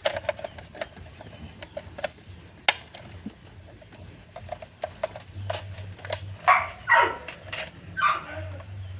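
Scattered light clicks and taps from parts being handled, with a dog barking a few times in the background in the second half.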